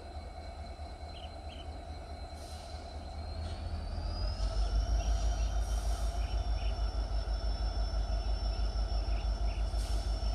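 Distant locomotive hauling a RORO freight train as it pulls away: a low rumble swells about four seconds in and then holds with a steady pulse, while a thin whine rises in pitch at the same time. Short high chirps sound over it now and then.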